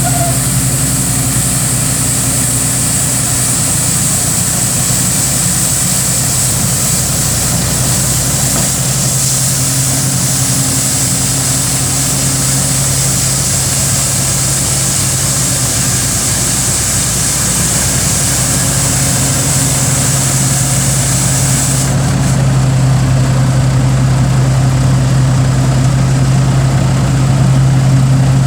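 2015 International DuraStar 4300 sweeper truck's engine idling steadily. A high hiss over it cuts off suddenly about three-quarters of the way through, and the engine hum is slightly louder after that.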